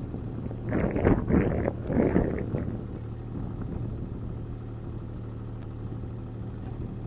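CAT 303C CR mini excavator's diesel engine running steadily under load as the machine swings to grab a felled tree. About a second in there are a few loud, brief noisy bursts.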